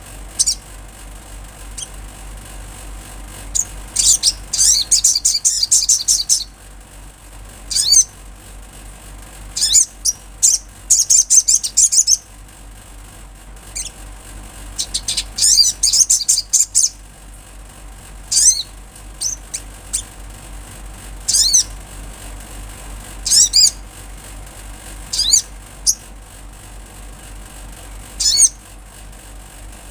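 Olive-backed sunbird singing: bouts of high, rapid twittering trills, some a second or two long and some short, repeated every couple of seconds. A faint steady low hum runs underneath.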